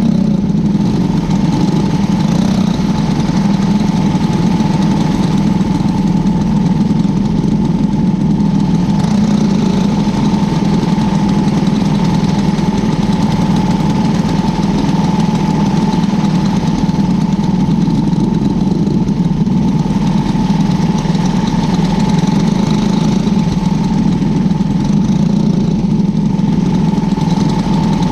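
Engine of a cadet winged race car running steadily at an even pitch, heard from on board.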